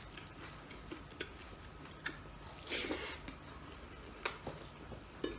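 Quiet close-up chewing of fried dried fish (daing) and rice eaten by hand, with faint mouth clicks and smacks and a brief noisy rustle about three seconds in. The fish is chewy rather than crisp, so there is no crunch.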